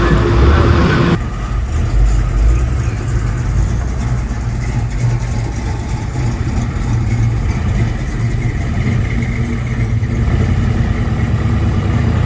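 A car engine runs with a steady low rumble. About a second in, a brighter sound carrying a steady tone cuts off suddenly.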